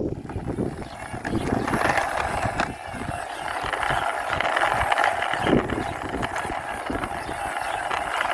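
Toy vehicle's small plastic wheels rolling along a wall as it is pushed by hand, a steady scraping rattle with many small ticks, with low rumbling wind on the microphone.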